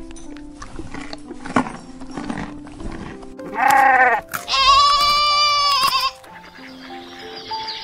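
Goat bleating twice, a short call followed by a longer, wavering one, over background music.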